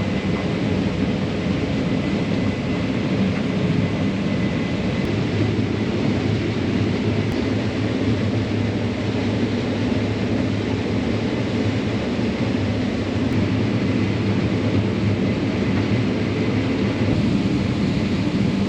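Combine harvester running with a steady, even drone.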